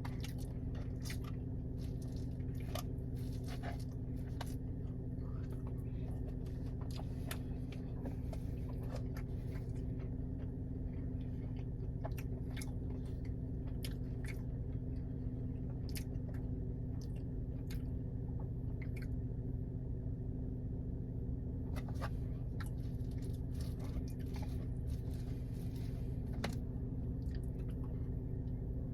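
Close-miked chewing and wet mouth sounds of a person eating a breakfast of hotcakes with syrup, with many scattered short clicks. A steady low hum runs underneath.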